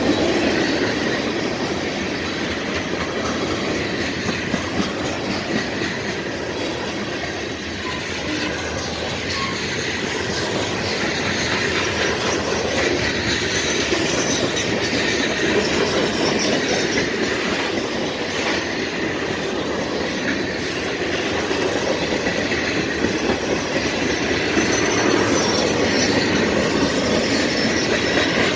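Freight cars of a CSX mixed freight train rolling past steadily, wheels clacking over the rail joints with some wheel squeal.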